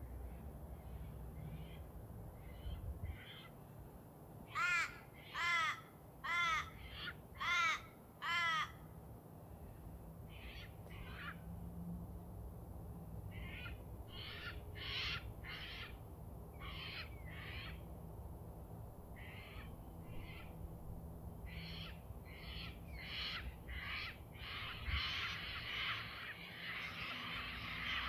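Birds calling outdoors: a run of five loud calls about a second apart starting about four seconds in, followed by many fainter, quicker calls from other birds, growing into a busier chatter near the end, over a steady low background hum.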